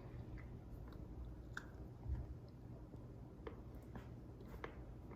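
Faint chewing of a mouthful of prickly pear cactus fruit, with a few scattered small crunchy clicks.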